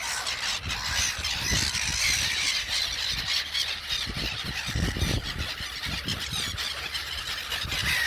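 A flock of gulls calling: a dense, continuous wash of shrill cries overlapping one another.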